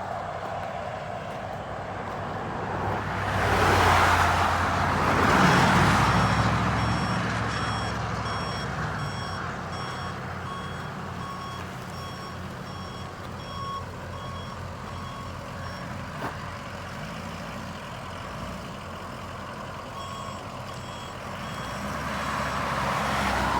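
Ford F550's 7.3 litre turbo diesel running, with a backup alarm beeping over and over. The engine noise swells loudly about four to six seconds in, then settles back.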